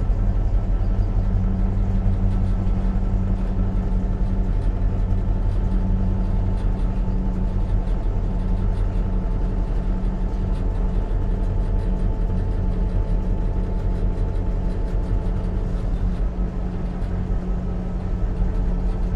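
EMD GP38-2 diesel locomotive's 16-cylinder 645 engine running steadily while the train is under way, heard from inside the cab as an even, low drone.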